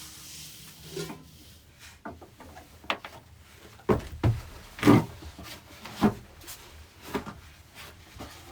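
A series of irregular knocks and thuds, about half a dozen, loudest about halfway through, like objects being handled and set down.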